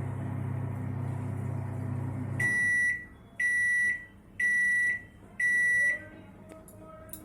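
Microwave oven running with a steady low hum that stops about two and a half seconds in. Four loud high beeps follow, about one a second, signalling that the cooking cycle has finished.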